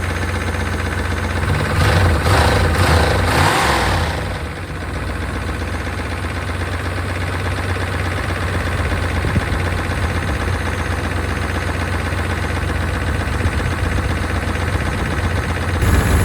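A 1992 Chevrolet Caprice wagon's V8 is revved briefly about two seconds in, blowing built-up debris out of the tailpipe, then settles back to a steady idle. Under the idle runs a noise that sounds louder than lifter tick and that the owner cannot place, suspecting a rocker arm or something lodged in the engine.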